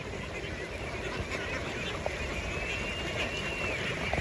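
A large flock of domestic ducks quacking and calling all at once in a steady, dense din.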